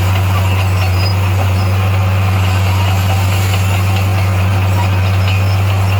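Heavy bulldozer diesel engine running steadily under load, a constant deep drone with no change in pitch.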